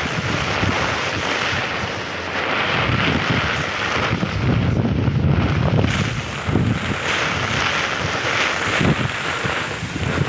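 Strong gusting wind buffeting the microphone over heavy rain: a steady rushing noise with rumbling surges as the gusts hit.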